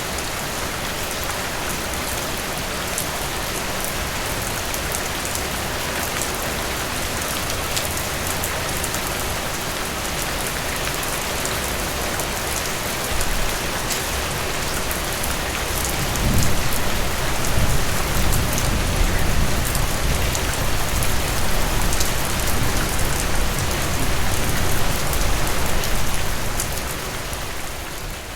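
Steady rain falling, an even hiss with fine drop ticks. A little past halfway a deep, uneven rumble swells in underneath and stays.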